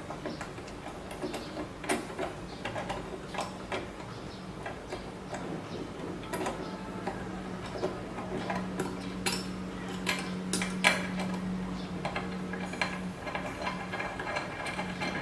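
Irregular metallic clicks and clinks of steel parts and bolts being handled while linear rails are fitted to a CNC Z-axis plate. A steady low hum comes in about six seconds in and runs beneath them.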